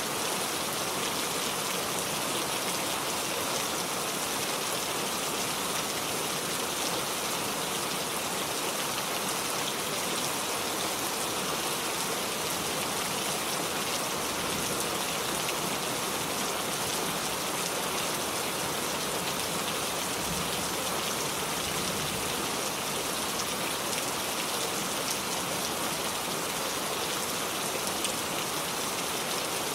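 Steady, heavy rainfall: a dense, even hiss of rain falling on surfaces with many raindrops pattering.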